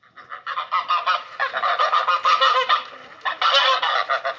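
Geese honking: many harsh, nasal honks overlapping in quick succession, as from a flock.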